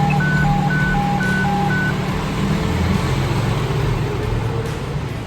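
Alternating high-low two-note alert tone, about four notes a second, for the first two seconds, typical of a fire dispatch alert. Underneath is the steady low hum of an idling fire engine, which eases off about two and a half seconds in.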